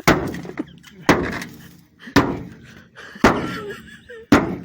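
An axe striking a car's sheet-metal body panels: five heavy blows, evenly about a second apart, each ringing out briefly before the next.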